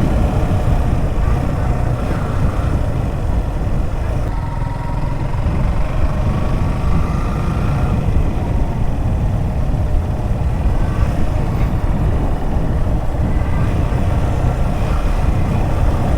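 Motorcycle on the move, its engine running under heavy wind rumble on the microphone, with a faint rising whine between about six and eight seconds in.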